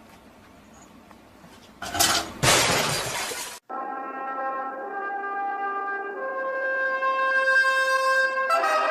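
A loud crash about two seconds in, lasting about a second and a half, like something breaking. After it cuts off, brass music plays, with held notes changing every second or so.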